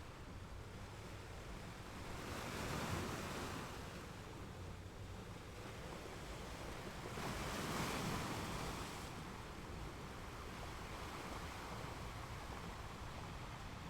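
Ocean surf: a steady wash of waves, with two swells where waves break and run in, about two seconds in and again near the middle.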